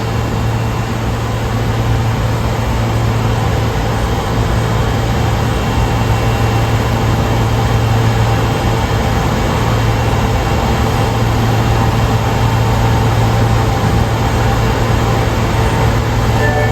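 Osaka Metro 22 series subway train standing at an underground platform: a steady low hum from its running equipment, mixed with the station's constant background noise, growing slightly louder a few seconds in.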